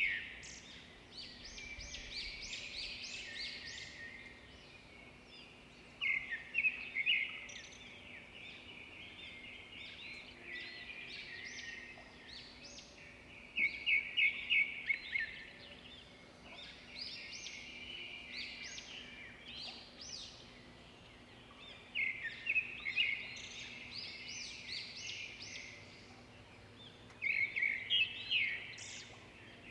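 Birds chirping: loud clusters of quick, high chirps come back about every six seconds, with softer chirping between them.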